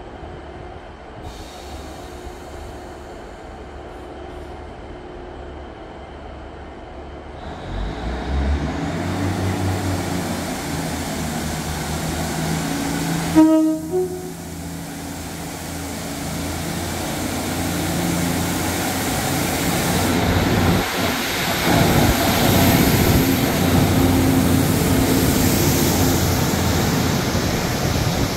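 Class 150 Sprinter diesel multiple unit drawing into the platform, its diesel engine note building up. About halfway through it gives a short two-note horn blast, and the wheel and engine noise grows louder toward the end.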